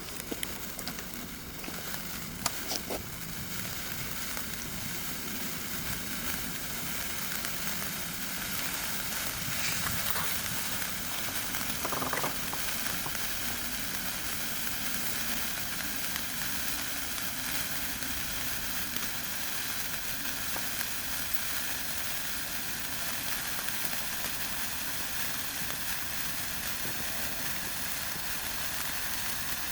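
A 210 mm sparkler burning with a steady hiss and fine crackle, with a few sharper crackles in the first twelve seconds or so.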